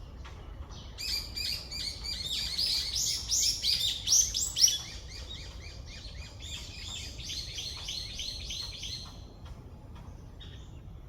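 Songbirds chirping in a dense, rapid run of short high notes that builds over the first few seconds, then thins and fades out about nine seconds in.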